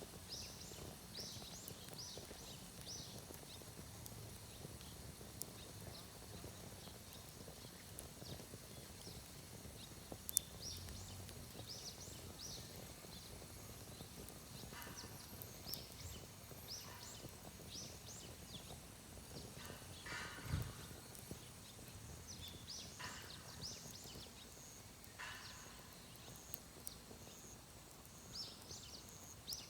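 Faint outdoor ambience: a small bird chirping over and over in short, high, falling notes, with a wood fire in a shichirin stove giving a few sharp pops, about ten and twenty seconds in.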